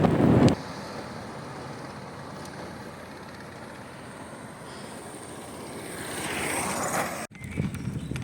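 Wind buffeting the microphone for the first half-second, then faint steady road noise from riding, swelling near the end and cutting off abruptly.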